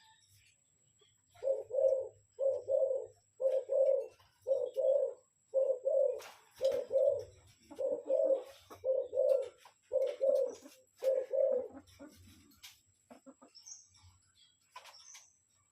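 Spotted dove cooing: a rapid run of about a dozen short, low coos, roughly two a second, that stops a few seconds before the end. Faint high chirps follow.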